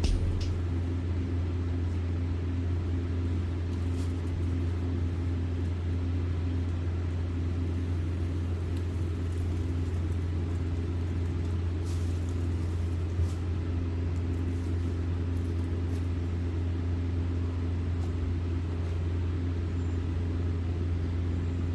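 A car engine idling: a steady, unchanging low hum.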